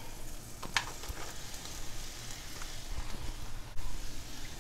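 Hot oil sizzling in a stainless-steel wok as sliced mushrooms go into it, a steady frying hiss, with one sharp click about a second in.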